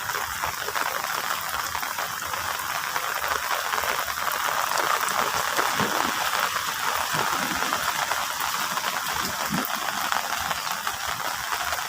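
Steady rain falling, an even crackling hiss.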